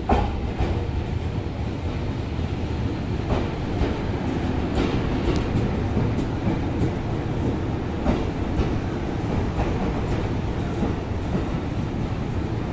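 JR electric multiple-unit train running past close by: a steady rumble of wheels on rail, with a clickety-clack of wheel sets striking the rail joints, often in pairs.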